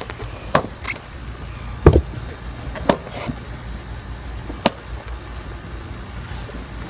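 A handful of short, sharp knocks or pops, five in all, the loudest about two seconds in, over a steady low rumble.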